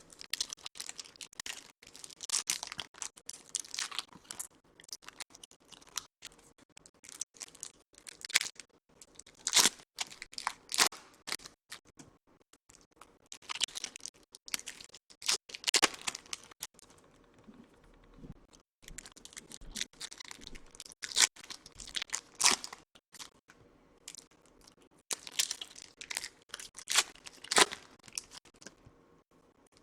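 Topps Chrome baseball card pack wrappers being torn open and crinkled by hand, in irregular bursts of crackling with short pauses between.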